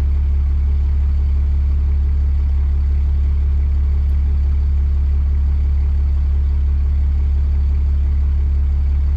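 6.7 L Cummins inline-six turbo-diesel idling steadily while warming up after a cold start. It is a high-mileage engine on its factory injectors, which the owner suspects are going bad.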